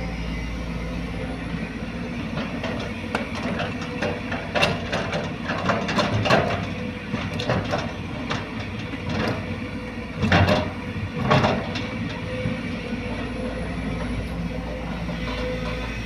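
Heavy diesel engine of an excavator running steadily, with a scatter of clanks and knocks and two heavier thuds about ten and eleven seconds in.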